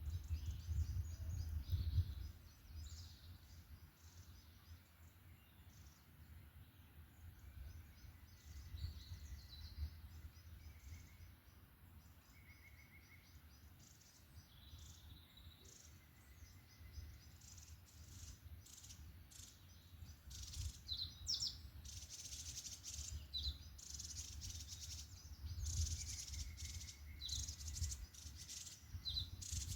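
Forest birds singing and calling: many short high chirps and trills, sparse at first and busier in the last third, over a low rumble.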